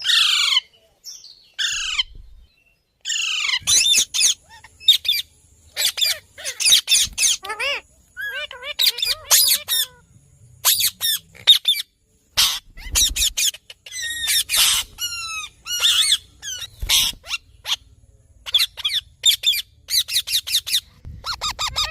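Indian ringneck parakeet squawking: many short, high-pitched calls, several near the start sliding down in pitch, then coming in quick runs.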